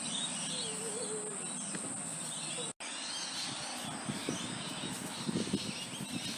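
Outdoor background noise with a steady high hiss and a faint wavering chirp early on. The sound cuts out for an instant a little under three seconds in, then low uneven rumbles come in.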